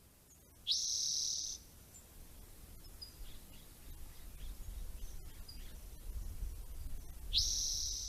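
Spotted towhee singing: two short high trills, each about a second long and some seven seconds apart, with a few faint high notes between them over a low background rumble.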